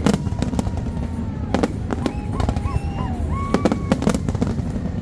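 Fireworks going off: a rapid string of sharp bangs and crackles over a steady low rumble, with short whistling tones that rise and fall between the bangs.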